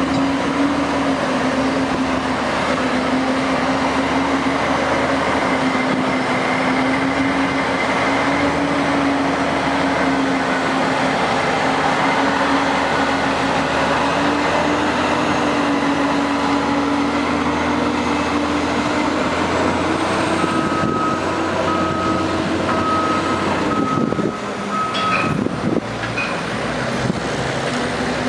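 Heavy diesel engines of oilfield rig-moving equipment running steadily under load, the pitch shifting slightly as they work. Near the end a row of short high beeps sounds for a few seconds, and the engine note drops briefly with a few knocks.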